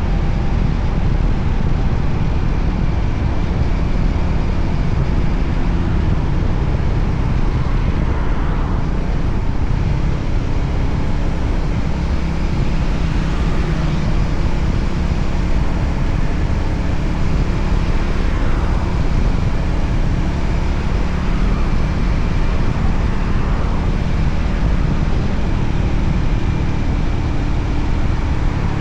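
Onboard ride audio from a Voge 300ACX single-cylinder motorcycle under way: steady heavy wind rush on the microphone over the engine running at speed. A faint rising-and-falling sweep comes every few seconds.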